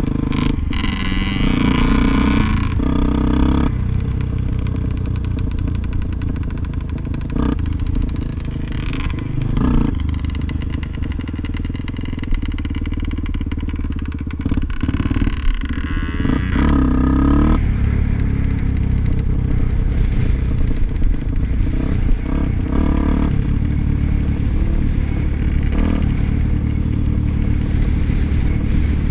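Off-road motorcycle engine running under way on a trail, rising in pitch as it revs about halfway through, with clattering and scraping from the bike over rough ground.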